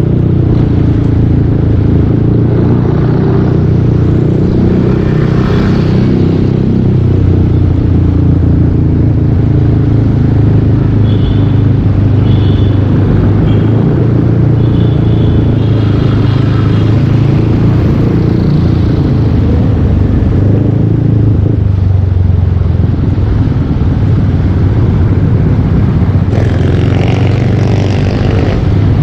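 Yamaha Aerox 155 V2 scooter's single-cylinder engine running steadily through a full Yoshimura exhaust while riding. A few short high-pitched tones sound near the middle.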